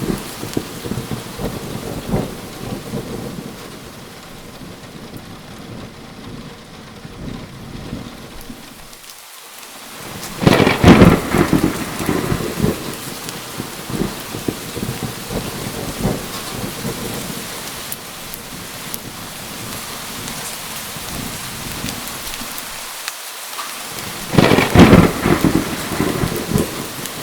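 Steady rain falling, with two loud thunder claps and rumbles, about ten seconds in and again near the end.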